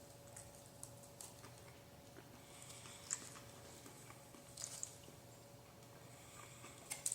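Faint sounds of a person eating, chewing with scattered soft clicks. The sharpest clicks come about three seconds in, near five seconds and near the end, over a faint steady hum.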